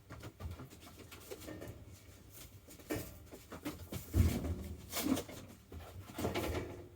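Irregular knocks, rustles and light clatter of objects being handled and moved about on a workbench, the loudest a dull thud about four seconds in.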